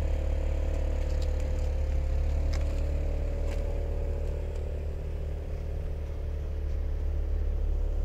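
Maserati Ghibli's engine idling steadily, heard through the open rear door, with a few light clicks.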